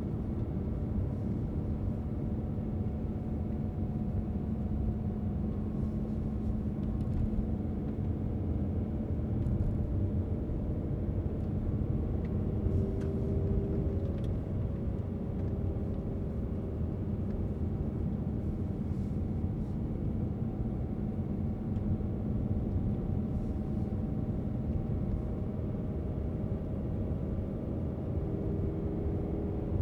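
A moving car's steady road noise: low rumble of tyres and engine with a faint hum.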